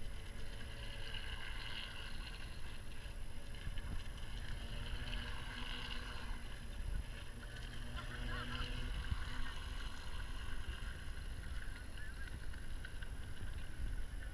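Radio-controlled model boat running on the water, a hum that swells and fades every few seconds over a steady low rumble.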